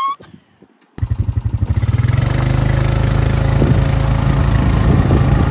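Near silence, then about a second in a vehicle engine comes in suddenly and runs steadily and loudly with a rapid low pulse.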